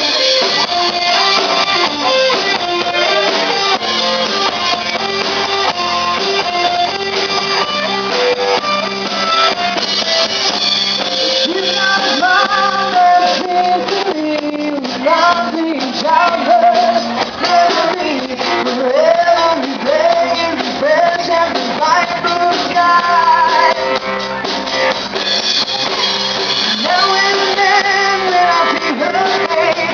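Loud rock music with electric guitar, drums and singing.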